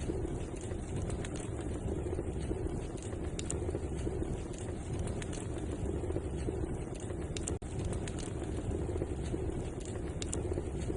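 Wood fire burning in a fireplace: a steady low rush of flames with scattered sharp crackles and pops. The sound cuts out for an instant about two-thirds of the way through.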